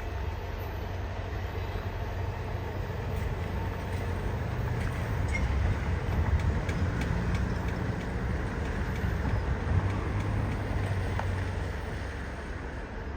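A passing train's low rumble, swelling in the middle and easing off near the end, with a few faint clicks.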